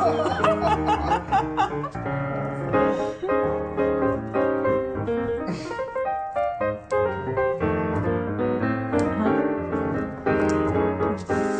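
Background music played on piano, a busy run of notes. Some wavering, warbling high notes ride over it in the first couple of seconds.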